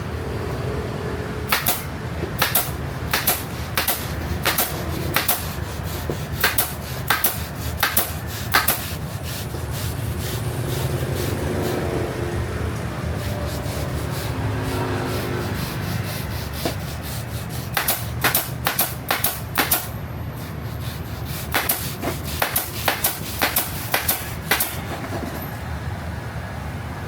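A run of sharp clicks, one every half second or so, over a steady fan hum. They stop for about ten seconds, then come back in quicker bursts near the end.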